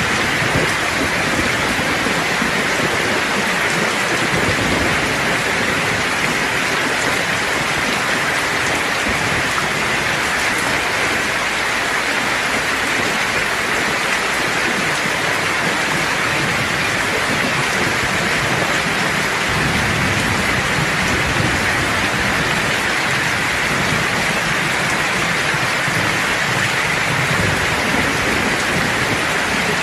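Steady, heavy rain hissing on a surface, with a low rumble of distant thunder swelling about two-thirds of the way through.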